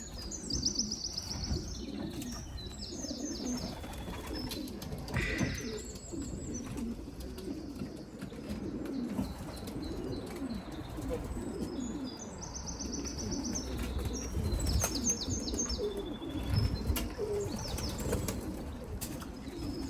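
Racing pigeons cooing at the loft throughout, with a few wing flaps and thuds. Several short runs of rapid high chirps from a small bird come through over the top.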